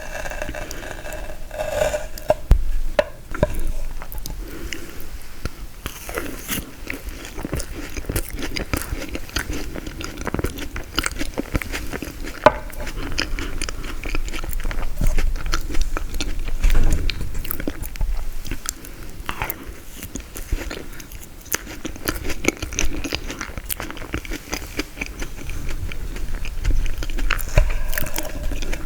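Close-miked eating of frozen tiramisu: a steady run of bites and chewing, with crunching and crackling from the icy, frozen layers.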